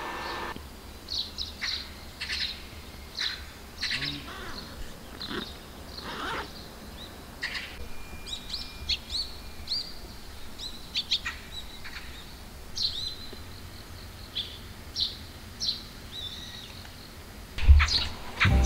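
Small birds chirping, with many short, high calls scattered throughout over a low steady hum. A single thump comes near the end.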